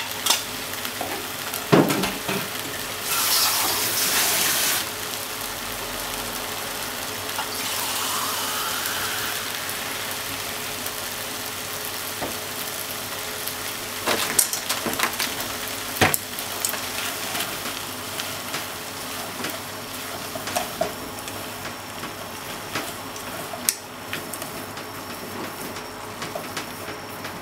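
Sliced onion, potato and bacon sizzling as they fry in a pot, with a steady hiss that swells for a second or two about three seconds in. A few sharp knocks come now and then.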